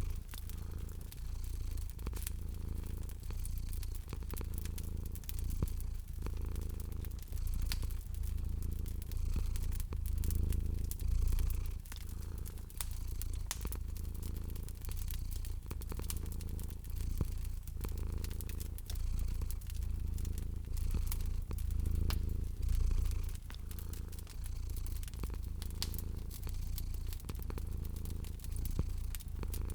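A cat purring, the low purr swelling and fading with each breath about every two seconds, over the scattered pops and crackles of a wood fire.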